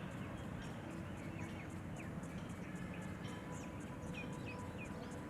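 Small birds chirping with many short, quick calls over a steady low background rumble, with a fast, even high-pitched ticking throughout.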